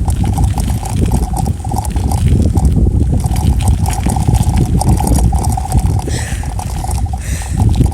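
Wind buffeting the microphone of a camera carried on a moving bicycle: a loud, steady rumble with rattling clicks running through it.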